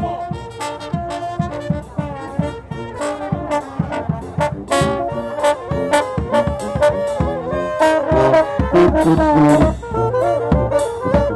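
Brass band playing: horns carrying the melody over a steady beat of drum strikes.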